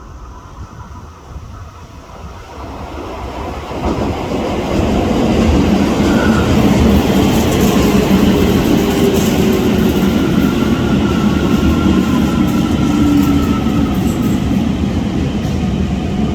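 Electric commuter train of the Toei Shinjuku Line pulling into the station, swelling to loud about four seconds in. The motor whine slides slowly down in pitch as it brakes, over the rumble and clatter of wheels on rail.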